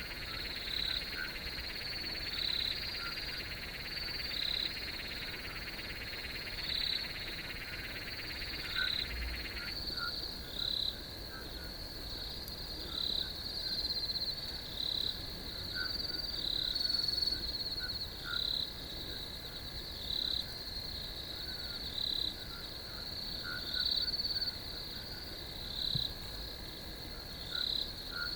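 A steady, high-pitched chorus of night crickets, with brighter pulsed calls repeating a little more than once a second. A lower buzzing layer in the chorus cuts off suddenly about ten seconds in.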